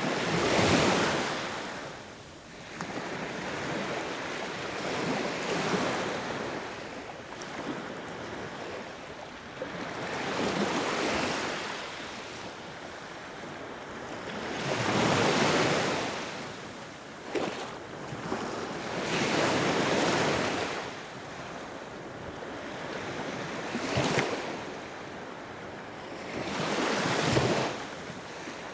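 Sea waves breaking and washing on a shore, the surf swelling and falling back every few seconds, with wind noise on the microphone.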